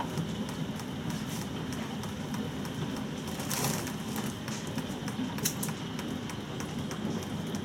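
Steady rain falling, with scattered drops ticking sharply on hard surfaces.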